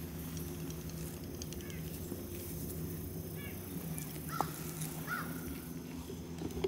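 Quiet woodland ambience over a steady low hum, with a few short chirping bird calls scattered through it.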